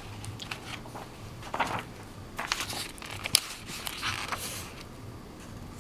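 Paper rustling and light handling noises as a picture book's pages are turned, a series of short, scattered crinkles and taps.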